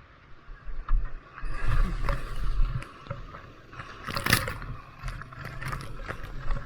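Water splashing and gurgling around a kayak on a river, with a low rumble and several sharp splashes, the loudest about four seconds in.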